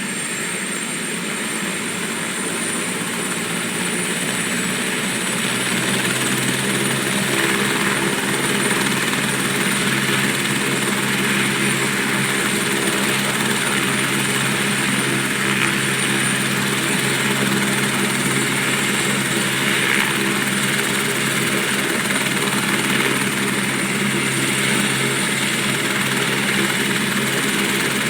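Helicopter running, a high turbine whine over the steady beat of the rotor, growing louder about six seconds in and then holding steady.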